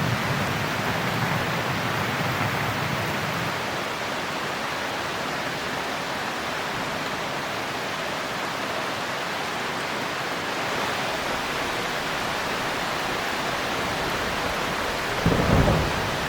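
Steady heavy rain. A low rumble of distant thunder fades out in the first few seconds, and a short low thump near the end is the loudest moment.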